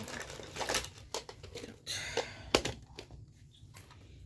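Handling of household clutter: crinkling and rustling of plastic and paper with a series of small knocks and clicks, the sharpest about two and a half seconds in.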